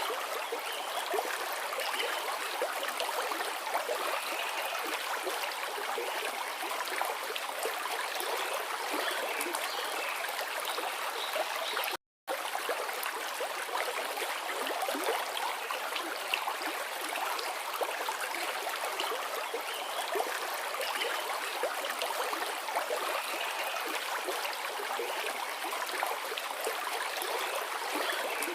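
Forest river flowing: a steady rush of water with a fine babble and trickle. The sound cuts out completely for a split second about halfway through.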